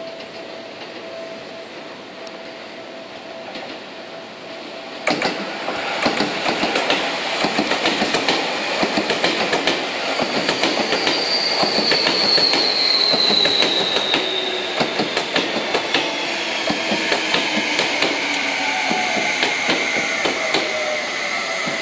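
Seibu 30000-series electric train running close past: its wheels click sharply over rail joints. It grows suddenly louder about five seconds in, and from about halfway through a high whine falls slowly and steadily in pitch.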